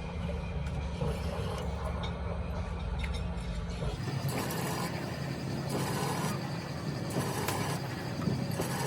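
A motor or engine running with a steady low hum that cuts out about four seconds in; after that, a noisier machine sound with a hissing surge about every second and a half.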